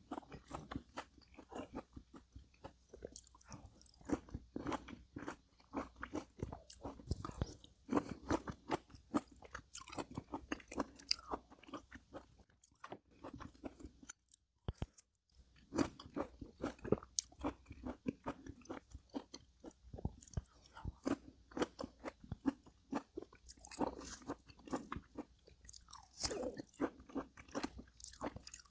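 A person chewing crunchy food close to the microphone: a steady run of small, crisp crunches, with a pause of about a second near the middle.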